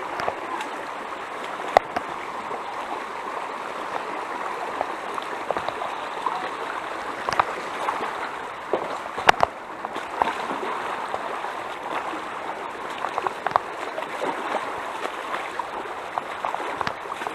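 Mountain stream running steadily over rocks, with a few sharp knocks, the loudest about two seconds and nine seconds in.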